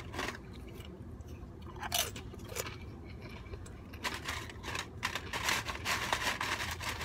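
A person chewing and crunching crunchy snack food close to the microphone: a couple of crisp crunches around two seconds in, then a steady run of crunching bites in the last three seconds.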